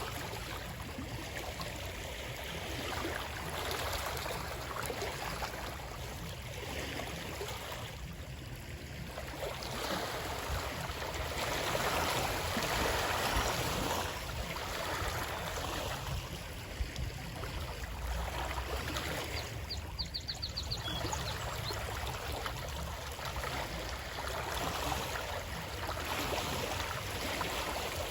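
Water rushing and flowing continuously, swelling and easing every few seconds. About two-thirds of the way through comes a brief quick run of faint high ticks.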